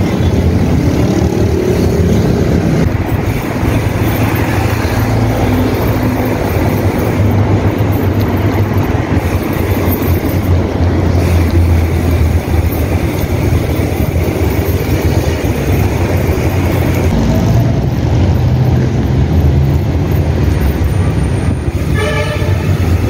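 Steady wind and road noise from riding a bicycle through city traffic, a constant low rumble with no break.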